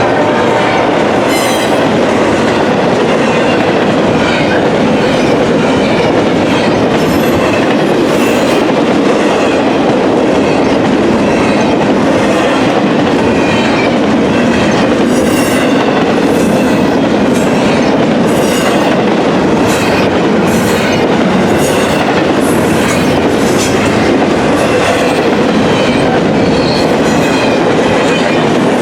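A train's cars rolling steadily past close by, wheels clicking over the rail joints in a continuous clickety-clack, at the tail end of a horn blast.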